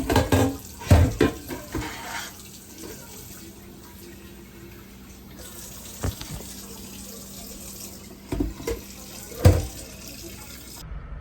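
Kitchen tap running steadily into a sink, with a few sharp knocks and clunks, the loudest in the first two seconds and one near the end.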